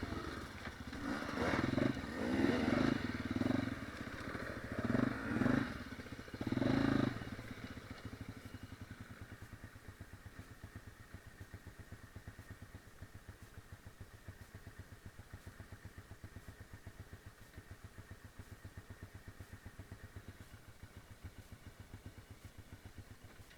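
Off-road motorcycle engine given several bursts of throttle in the first seven seconds, then dropping to a steady, evenly pulsing idle for the rest.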